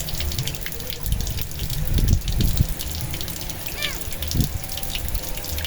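Water running and splashing steadily, water flowing away unused, with wind rumbling on the microphone. A short high chirp sounds about four seconds in.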